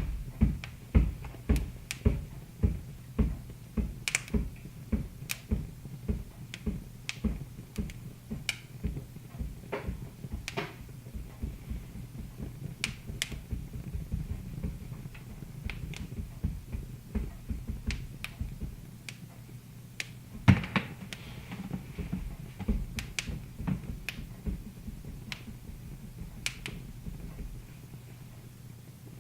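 Wood fire in a fireplace crackling, with many sharp pops over a steady low hum; one pop about twenty seconds in is louder than the rest.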